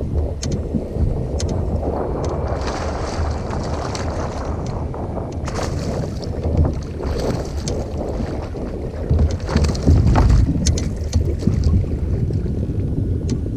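Wind buffeting the microphone on a fishing kayak on open water, a heavy steady rumble with hissing swells of water noise at times and scattered sharp clicks and knocks.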